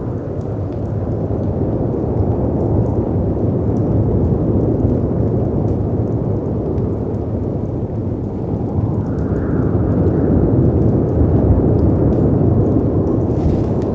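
Stormy wind and crashing sea waves as a dense, deep rush that swells and eases in slow surges, with light crackles of a wood fire on top.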